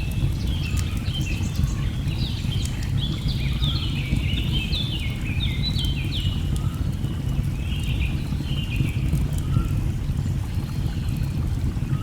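Steady low rush of a waterfall with birds calling over it in many short, falling chirps, thickest in the first three quarters and thinning toward the end. Faint crackles of a wood fire tick through it.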